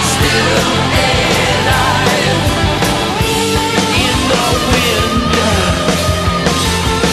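Loud rock music with distorted guitars, drums and singing.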